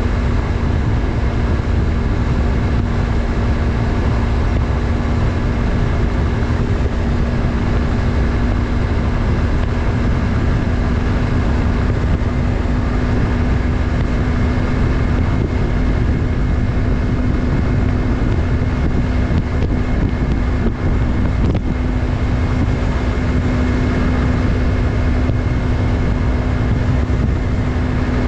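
Yamaha MT-03's 321 cc parallel-twin engine running at a steady cruise, its note holding one pitch throughout, over heavy wind rumble on the helmet or bike-mounted microphone.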